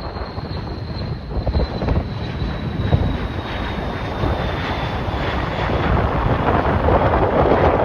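Jet airliner engines running as the aircraft passes, a thin high whine slowly falling in pitch while the noise grows louder toward the end, over the gusty rumble of strong wind on the microphone.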